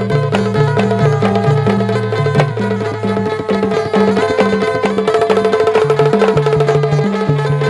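Instrumental interlude of a Bundeli folk song: steady rhythmic hand percussion with a repeating bass line and a sustained drone.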